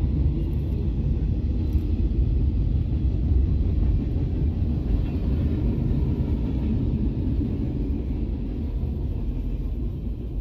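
Freight train cars rolling past on the rails: a steady low rumble of wheels on track, heard from inside a car.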